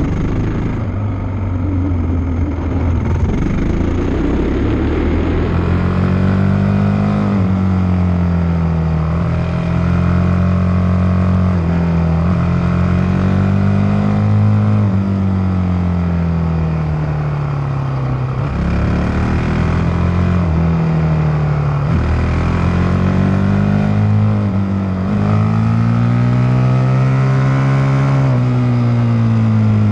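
Motocross bike engine running under way, its pitch climbing and dropping again and again every few seconds as the throttle is opened and eased off.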